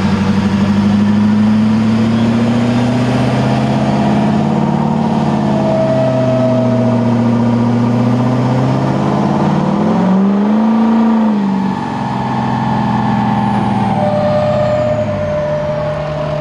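Ford Excursion's 6.0-litre turbodiesel V8 running hard under load on a chassis dyno, its muffler unbolted. The engine holds a steady pitch, rises and falls briefly about ten seconds in, then settles lower and slightly quieter.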